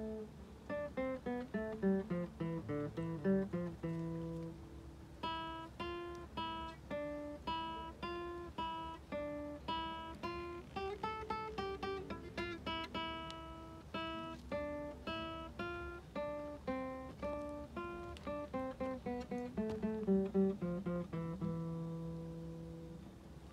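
Acoustic guitar playing a picked melody, single notes ringing over low bass notes, the playing dying away near the end.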